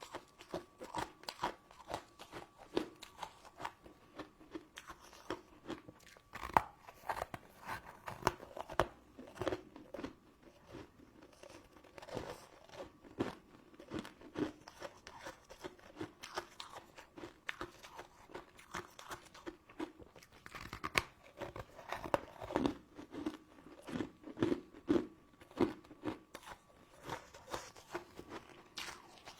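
Close-miked eating of crystal candy sweets: many short, irregular crunches of hard sugar crust being bitten and chewed.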